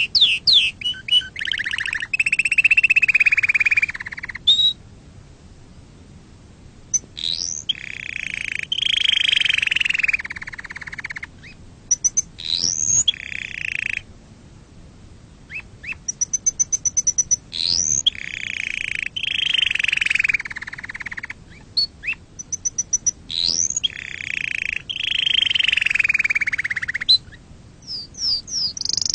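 Domestic canary singing: long phrases of rolling trills and fast runs of repeated high notes, with short pauses between phrases. This is a clean tutor song of the kind played to teach young canaries to sing.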